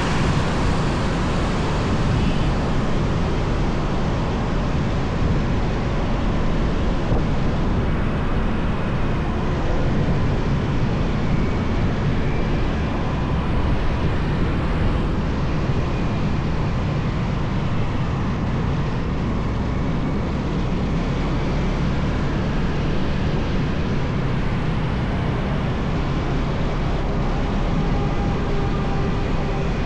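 Motorbike riding along a highway: steady wind and road noise, with the engine running beneath it.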